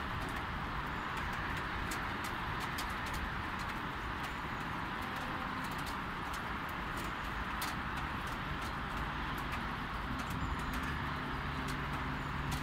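Light rain falling: a steady hiss with frequent small, sharp ticks of drops striking nearby surfaces.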